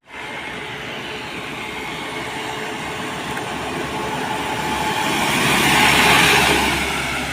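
A heavy road vehicle passing by on the road: engine and tyre noise builds to its loudest about six seconds in as it goes past, then starts to fade.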